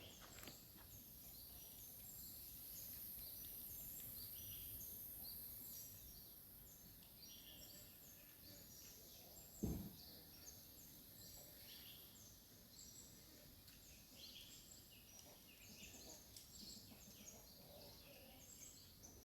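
Faint birdsong: many short chirps repeated over and over, above a steady high hiss. One dull thump about halfway through.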